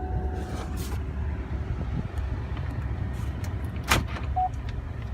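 Steady low rumble inside a pickup truck's cab, typical of an idling engine, with a few light clicks, a sharp knock about four seconds in, and a short beep just after.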